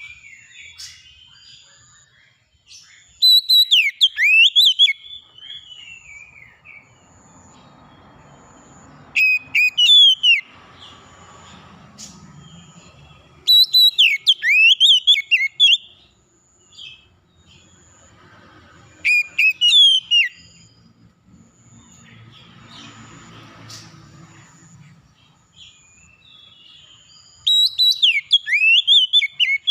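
Songbird song: five loud bursts of rapid, sliding whistled phrases, each a second or two long and a few seconds apart. A faint high pulsing tone repeats about once a second behind them.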